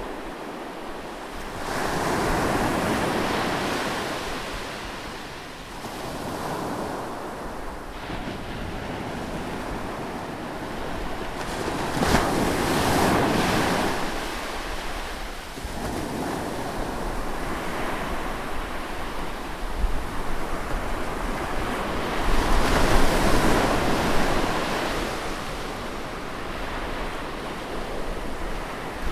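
Sea waves breaking close by on a shore, the surf swelling and easing in several slow surges with a steady wash between them; the loudest surge comes a little over two-thirds of the way through.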